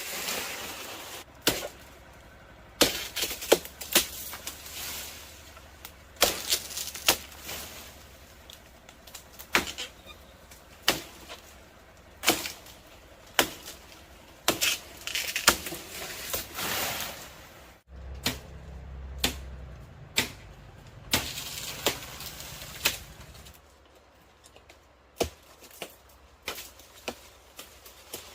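Repeated sharp knocks, irregularly spaced about a second apart, with rustling in between: hand-tool work.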